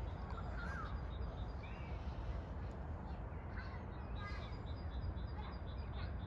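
Outdoor birds calling with many short chirps and calls scattered through, over a steady low rumble.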